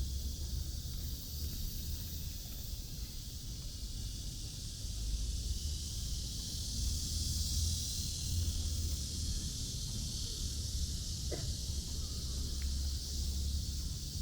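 Outdoor ambience on a city park path: a steady, even high hiss over a low, uneven rumble, with one faint short chirp about eleven seconds in.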